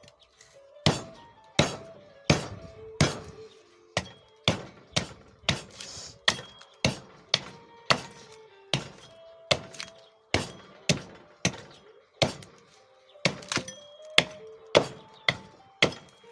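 Axe chopping a rowan burl into a rough shoe-last blank: a long run of hard, uneven thunks, about one and a half a second, each with a short ringing tail.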